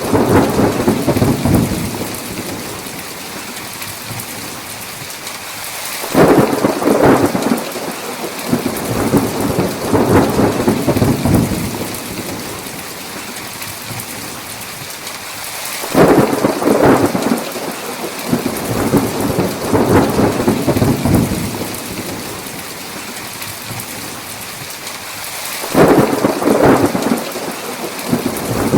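Thunderstorm with steady heavy rain and repeated rolls of thunder. Thunder breaks in sharply about every ten seconds, near six, sixteen and twenty-six seconds in, and rumbles on for several seconds each time over the constant rain.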